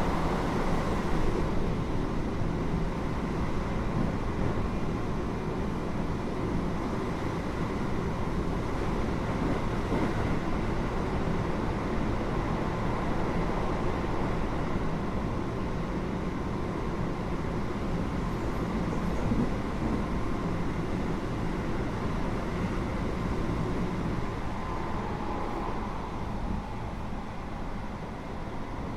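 Steady running noise inside a Keio 8000 series electric train car, heard above its GTO-VVVF main controller: wheels rolling on the rails and the traction equipment running, easing slightly near the end.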